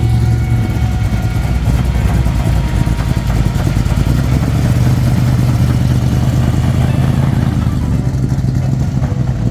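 A vehicle engine running at idle close by: a loud, steady low rumble with a fast, even flutter.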